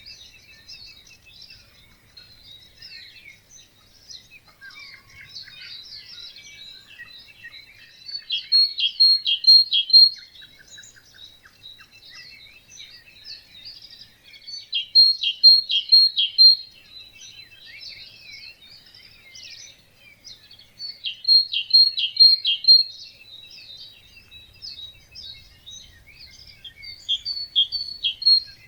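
Wetland dawn chorus of songbirds chirping, with one nearer bird repeating a short song of four or five quick notes about every six seconds, four times in all.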